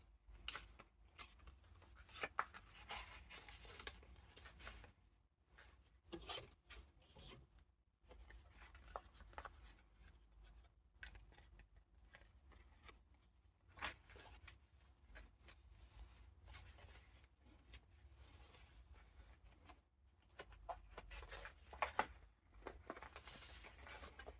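Faint rustling and crinkling of paper as the pages and tucked-in paper ephemera of a junk journal are turned and handled, with occasional sharp taps, in bouts broken by short pauses.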